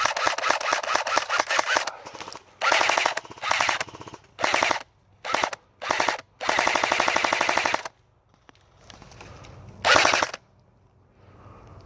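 Airsoft guns firing in rapid full-auto bursts, about eight bursts of varying length with short pauses between them, the longest lasting about a second and a half past the middle.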